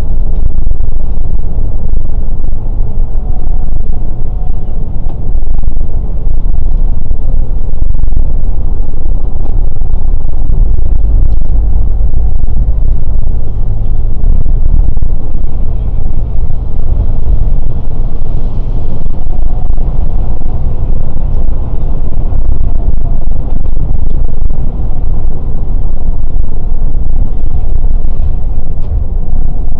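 Scania K410 coach driving at a steady pace: a loud, continuous low rumble of diesel engine and road noise.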